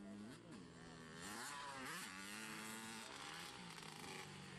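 Motocross bike engines revving, their pitch rising and falling several times over a steady hum. The loudest rev climbs steeply and drops away about two seconds in.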